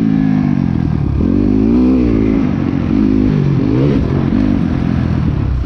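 Dirt bike engine revving as it rides, its pitch rising and falling several times with the throttle and gear changes.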